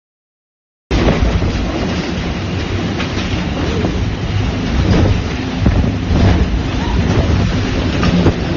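After about a second of dead silence, strong storm wind blowing hard across the microphone: a steady, rumbling rush of noise with gusts.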